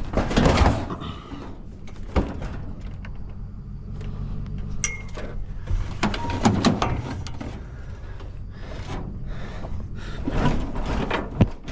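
Irregular knocks, bangs and clatter of objects being handled and moved, over a steady low hum.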